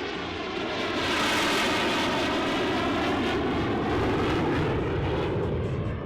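Jet engine noise of a Thunderbirds F-16 flying past: a steady rushing jet sound that swells about a second in, with a slowly shifting, wavering tone.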